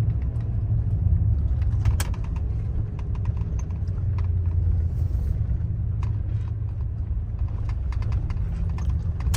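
Truck driving, heard from inside the cab: a steady low rumble of engine and road noise, with scattered light clicks and rattles and one sharper click about two seconds in.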